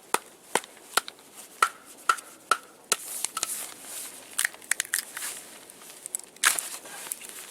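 Wood being split and broken by hand: sharp cracks and crunches, about two a second at first, then a scratchy rasp and more scattered snaps, the loudest near the end.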